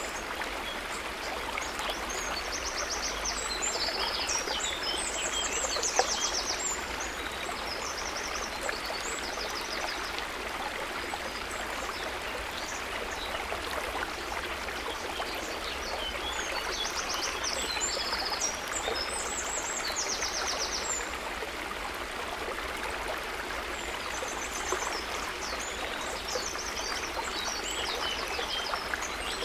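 River water running steadily over rocks, a continuous rushing flow. Bursts of high, quickly repeated chirping trills sound above it several times.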